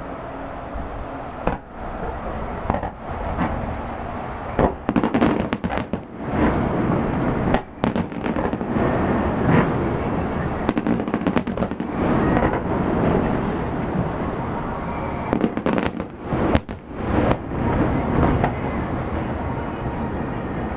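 Aerial fireworks bursting one after another, with many sharp booms over a continuous rumble.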